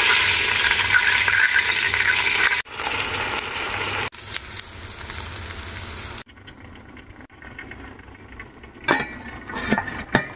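Ingredients sizzling loudly in hot oil in a cooking pot, across a few hard edits. About six seconds in it drops to a much quieter frying hiss as the rice is toasted in the pot, with a few short knocks near the end.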